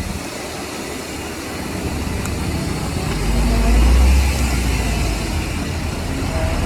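Heavy diesel earthmoving machinery working, its engine running with a low rumble that builds and is loudest about three to four seconds in.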